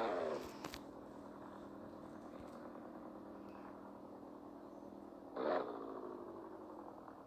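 Toyota Supra's 2JZ inline-six engine, its revs dropping away at the start and then running steadily at low revs, with a brief rise and fall in revs about five and a half seconds in.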